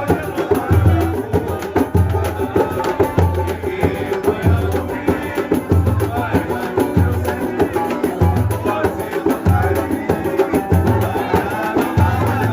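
Live samba music: voices singing over hand percussion and shakers, with a low drum pulse in a steady rhythm.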